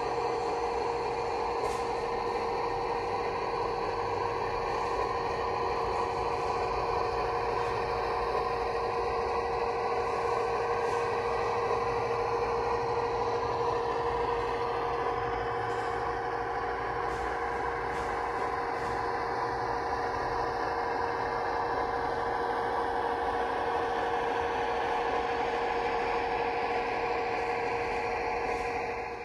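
Model locomotive sound decoder playing a recorded Class 55 Deltic's twin Napier Deltic engines through a small speaker, running steadily at an unchanging note with a steady whine, and a few faint ticks.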